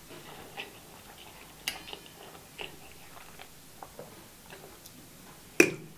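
A person chewing a mouthful of sushi coated in crushed Flamin' Hot Cheetos, with soft chewing sounds and scattered small clicks. A sharp, louder click comes a little before the end.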